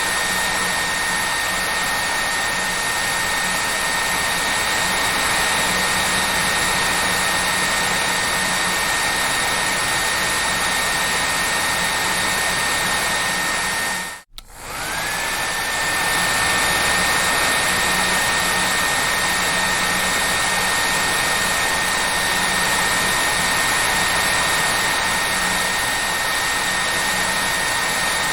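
Hair dryer running steadily: a full rushing blow with a high motor whine. About halfway through it cuts out for an instant, and the whine then slides back up to its pitch.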